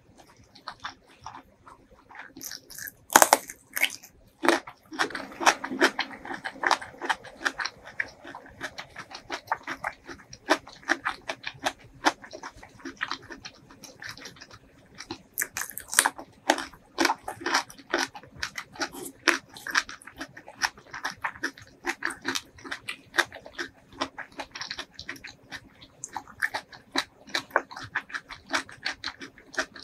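Close-miked eating sounds: a crisp bite into a raw red radish about three seconds in, then crunchy chewing with many irregular mouth clicks and crunches.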